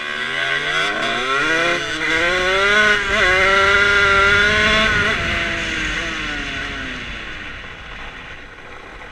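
Two-stroke Rieju MRT with an 86 cc Top aluminium big-bore kit, accelerating hard: the revs climb through the gears with short breaks at the shifts, hold high for a couple of seconds, then fall away and fade as the throttle is rolled off. Wind rumble on the helmet microphone sits underneath.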